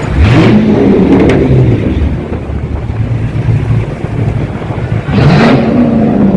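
Car engine revved twice: the pitch climbs sharply just after the start and falls back to a rumbling idle, then climbs again about five seconds in.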